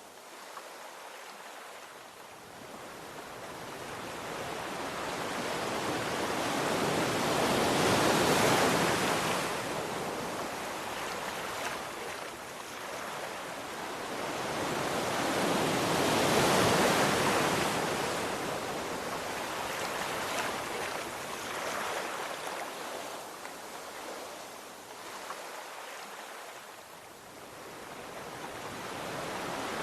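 Sea waves surging and washing ashore: a wide hiss of surf that swells to a peak and ebbs away twice, with a third swell building near the end.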